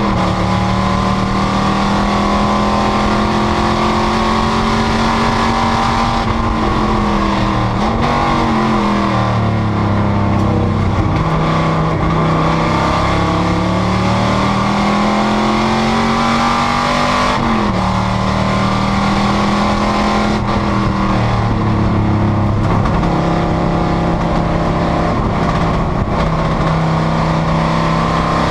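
Panoz GTS race car's engine at racing speed, its note climbing steadily and then dropping sharply several times as it shifts and brakes.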